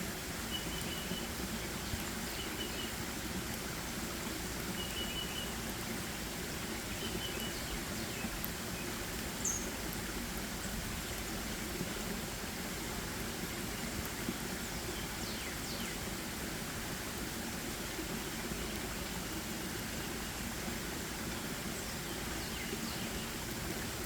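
Forest ambience: a steady background rush of noise with small birds giving short high chirps several times in the first third, and one sharp high call about nine and a half seconds in.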